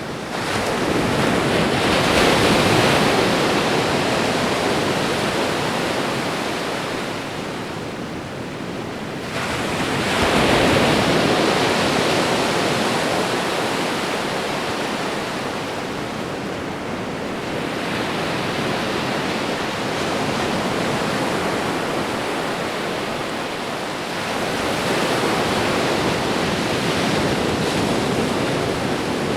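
Ocean waves washing onto a shore: four slow surges, each swelling quickly and fading away over several seconds, the first two the loudest, with a steady rushing hiss between them.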